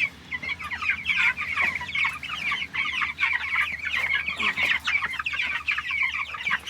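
A flock of young meat birds peeping continuously, many short, high, downward-sliding calls overlapping.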